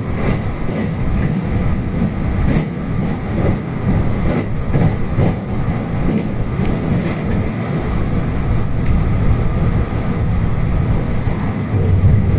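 JR electric train running on the rails: a steady low rumble with scattered light clicks and knocks.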